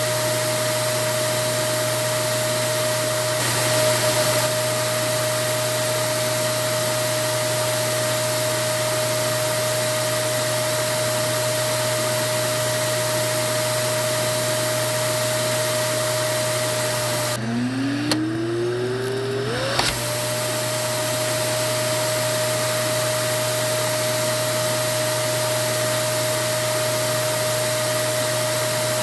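Vacuum cleaner running steadily: a loud rush of air with a constant motor whine. About two-thirds of the way through, the motor briefly cuts out, then spins back up with a rising whine before settling into its steady run again.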